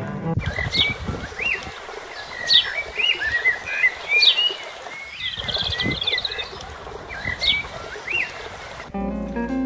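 Songbirds singing and calling: a falling whistle repeated every second or two, short chirps, and a quick trill about halfway through, over a steady outdoor hiss. The bird sound begins and ends abruptly, with music taking over near the end.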